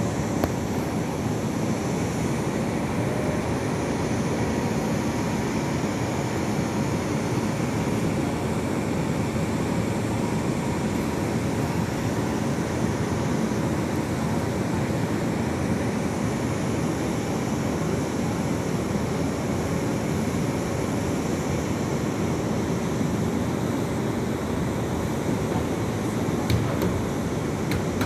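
Long Island Rail Road M9 electric train standing at the platform, its onboard equipment running with a steady hum and hiss and a faint steady tone over it.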